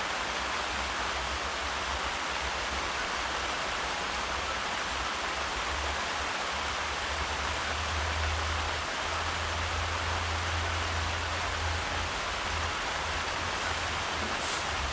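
Steady rain falling, a continuous even hiss, with a low rumble underneath through the middle.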